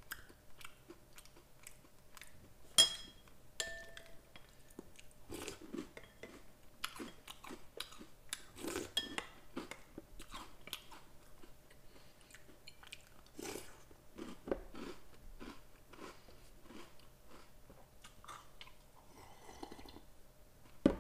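Close-up chewing of crunchy Oreo O's cereal in milk: a continuous run of small crunches and wet mouth clicks. About three seconds in, a sharper knock with a short ring, the spoon against the ceramic bowl.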